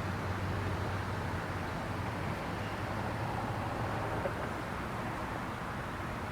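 Steady low hum under an even background hiss, with no distinct events.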